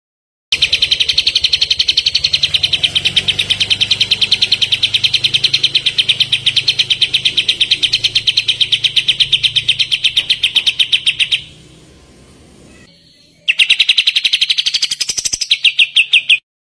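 Kapas tembak songbird giving a long, loud, rapid trill of fast repeated notes, several a second. The trill breaks off for about two seconds and then resumes, sweeping upward briefly before the end.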